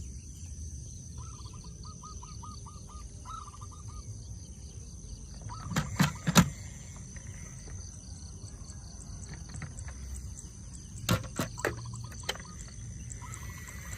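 Outdoor ambience with small birds chirping in short trills over a steady high-pitched hum. Sharp clicks or knocks come in a cluster of three about six seconds in and another cluster about eleven seconds in.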